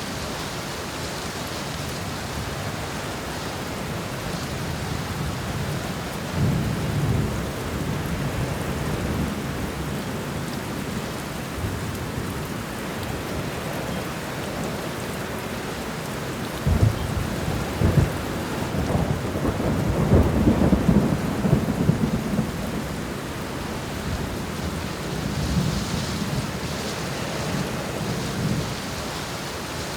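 Steady heavy rain with rolling thunder. A low rumble comes about six seconds in, sharp claps at around seventeen and eighteen seconds run into a longer rumble, and more rumbling follows near the end.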